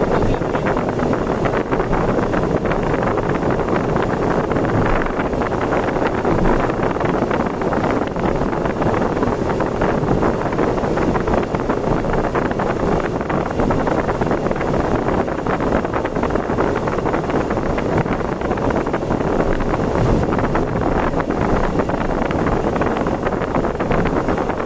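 Steady rush of road and wind noise from a vehicle driving at speed, with wind buffeting the microphone.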